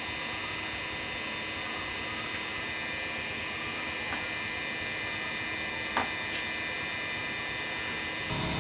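Steady mechanical hum from a small machine or motor running, with one short click about six seconds in.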